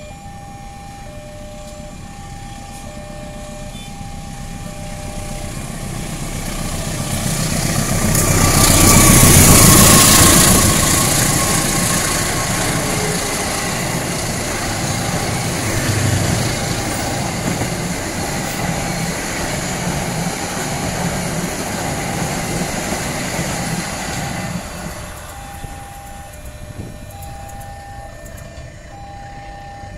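CC203-class diesel-electric locomotive hauling a passenger train passes close by. Its engine and wheel noise swell to a peak about ten seconds in, then the coaches roll past steadily and the noise drops away about 25 seconds in. A level-crossing alarm beeps in two alternating tones at the start and again at the end.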